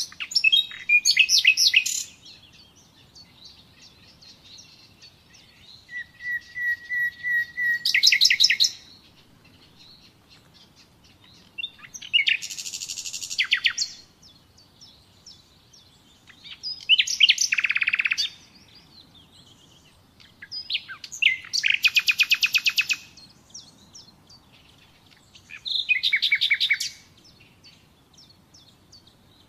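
Common nightingale singing: six separate song phrases with pauses of a few seconds between them. The phrases are made of rapid trills and fast repeated notes; one, about six seconds in, begins with a run of steady notes that grow louder before breaking into a fast trill.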